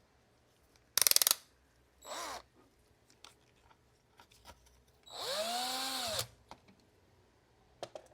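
Small electric screwdriver driving a screw: a short, loud rattling burst about a second in, a brief run at about two seconds, then a longer run of about a second in which the motor's pitch rises and falls back.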